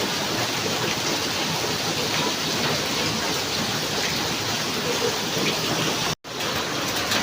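Heavy tropical rain pouring down, a dense steady hiss of rain. The sound cuts out completely for a moment about six seconds in, then the rain resumes.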